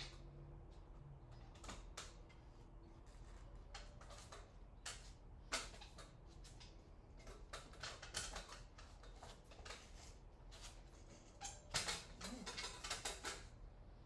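Scattered light clicks, knocks and creaks of plywood and table saw parts being handled while a cut is set up, with a busier cluster of knocks near the end. The saw is not running.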